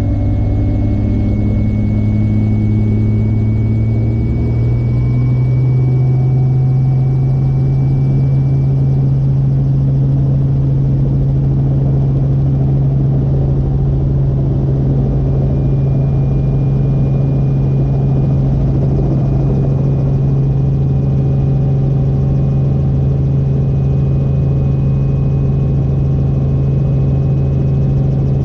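Helicopter engine and rotor running steadily, a loud continuous drone whose pitch steps up slightly about four to five seconds in, then holds.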